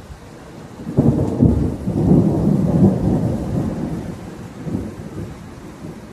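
A thunderclap about a second in, rumbling and rolling for several seconds before dying away, over steady rain.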